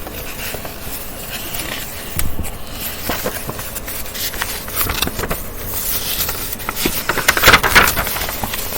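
Irregular rustling and scraping handling noise close to the microphone, with clicks throughout and a louder burst of rustling near the end.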